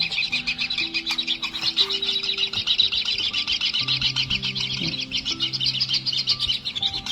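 White-throated kingfisher nestlings giving a continuous rapid, buzzy begging chatter.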